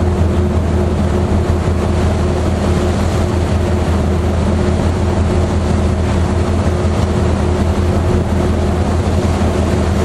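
Steady drone of a passenger ferry's engines, a few low, unchanging tones, under an even hiss of wind and sea.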